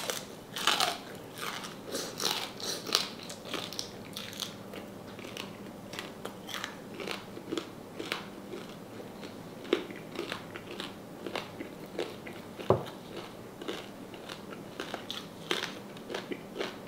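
Crunching bites and chewing of crispy deep-fried salted pork knuckle skin, close up, crunch after crunch, thickest in the first few seconds and again near the end. One dull knock about three-quarters of the way through.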